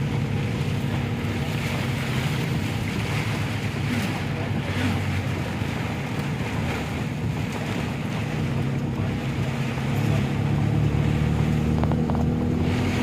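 Steady low engine hum under an even hiss of heavy rain, a little louder after about ten seconds.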